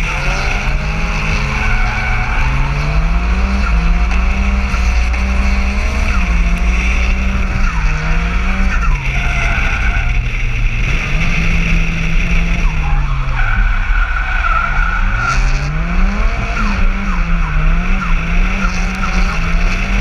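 Nissan 200SX S14's engine revving hard, its pitch rising and falling again and again as the throttle is worked through drifts, with a deep drop and climb about fourteen seconds in. Wind rumbles over the outside-mounted camera microphone.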